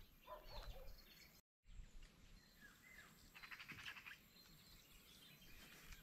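Faint bird chirps over near silence, with a short rapid trill near the middle. There is a brief, total dropout of sound about a second and a half in.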